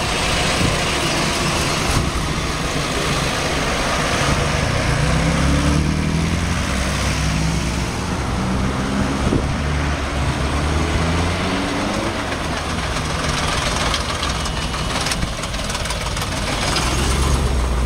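A car engine running, with its pitch climbing in repeated steps from about four seconds in, as a vehicle accelerates and moves up through the gears; a low engine rumble again near the end.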